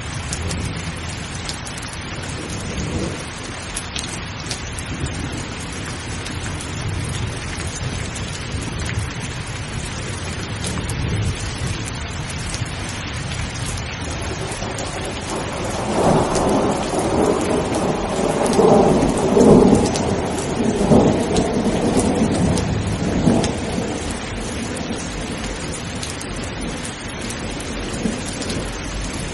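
Steady heavy rain falling, with a long roll of thunder that builds a little past halfway, peaks, and rumbles off a few seconds later.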